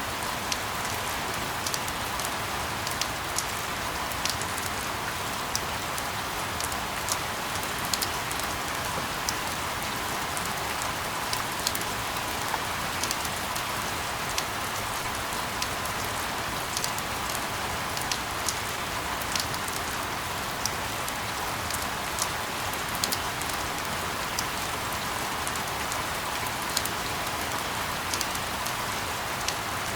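Steady rain falling: an even hiss with frequent sharp ticks of single drops landing, scattered irregularly.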